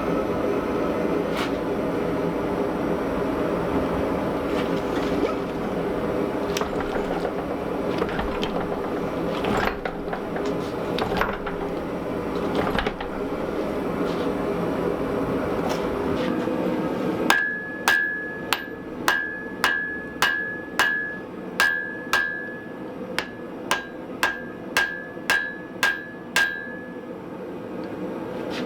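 A steady rushing noise with a few scattered knocks, which stops about sixteen seconds in. Then a blacksmith's hammer strikes wrought iron on an anvil in a steady rhythm of about two blows a second, each blow ringing briefly.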